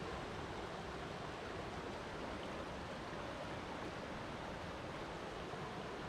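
Flowing water rushing steadily, an even, unbroken noise with no separate splashes.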